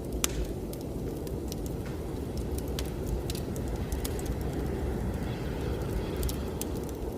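Wood fire crackling in a fireplace, with frequent small pops and one sharp pop just after the start, over a steady low rush of blizzard wind.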